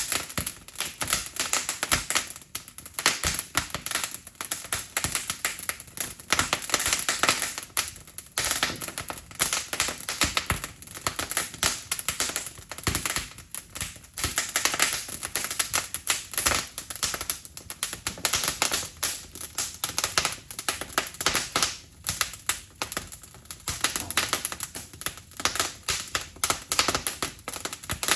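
Wood fire crackling, with a dense, irregular stream of sharp pops and snaps.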